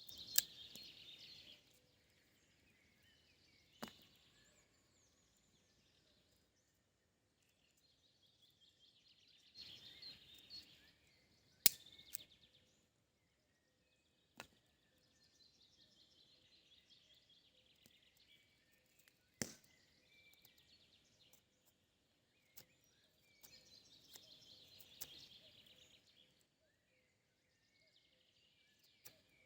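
A songbird singing repeated trilled phrases about two seconds long, with a few sharp clicks scattered between them.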